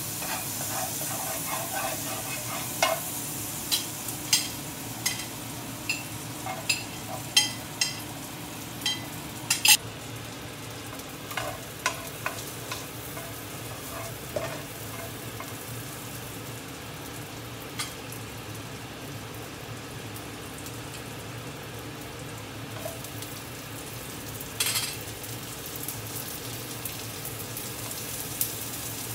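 Garlic and sliced onion sizzling in a nonstick wok, with a spatula stirring, knocking and scraping against the pan. The knocks come in a quick run in the first ten seconds, then now and then over the steady sizzle.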